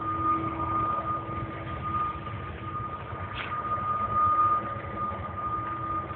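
Train running at a distance: a low rumble under a steady high whine and a fainter, lower hum.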